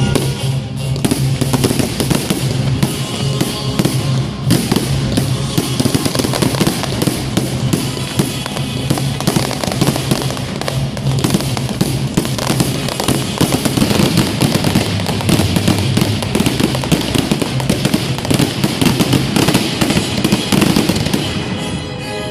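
Fireworks display with shells bursting in near-continuous rapid crackles and bangs, over loud music played with the show.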